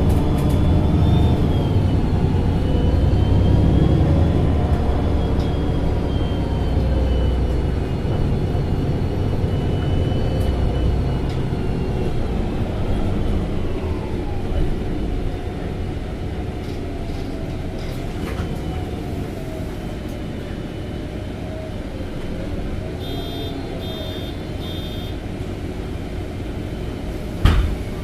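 MAN NG273T4 LPG-powered articulated city bus running, its drive whine rising and falling with speed. It is louder in the first half and then quieter. Near the end come three short high beeps, then a sudden loud burst.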